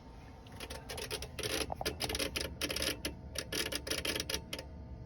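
Rapid, irregular clicking from a Renault truck's electrical system with nothing switched on, the symptom of an electrical fault that cuts power while driving.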